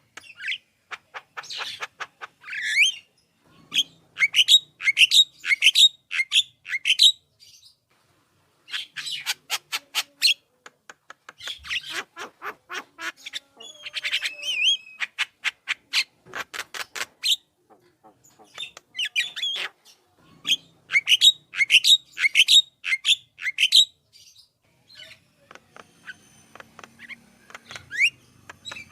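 Javan myna singing vigorously: runs of harsh squawks and chattering notes, with stretches of very fast repeated clicking notes, broken by short pauses.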